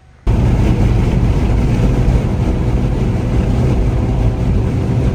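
Car engine running loud and hard, starting abruptly a moment in and holding steady with a deep, dense drone.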